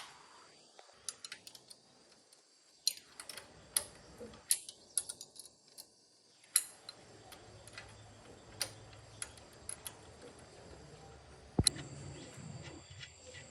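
Scattered light clicks and taps from hand tools and small metal parts being handled during machine repair, with one sharper knock near the end.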